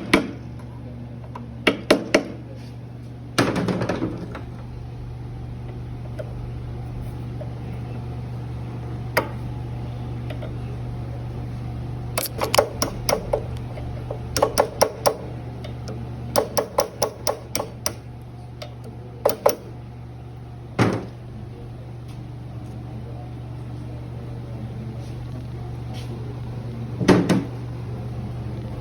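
Hand tools clinking and knocking on metal parts in scattered groups of quick taps and single knocks, over a steady low hum.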